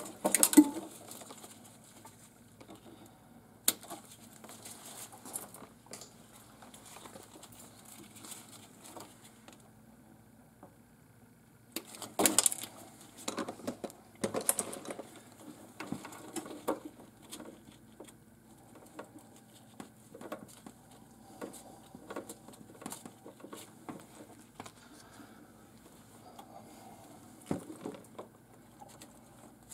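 Irregular clicks, taps and rustles of hands and tools working on a refrigerator's parts, with louder clusters of knocking right at the start and again about twelve to fifteen seconds in.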